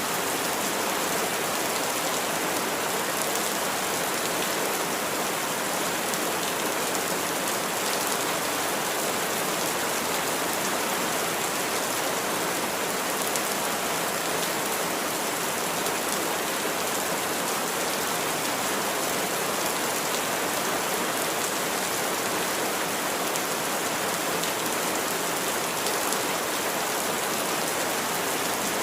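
Steady rain falling, an even hiss with faint scattered drop ticks, constant in level throughout.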